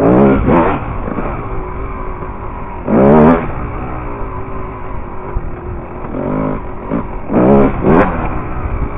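Dirt bike engine revving hard in short bursts, about four times, and running at lower revs in between.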